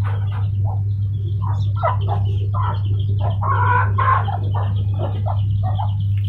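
Birds calling: a run of short clucking calls, several a second, with fainter high chirping above them, over a steady low hum.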